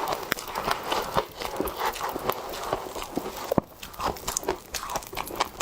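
Soft, powdery freezer frost being bitten and chewed close to the microphone: a run of irregular crisp crunches.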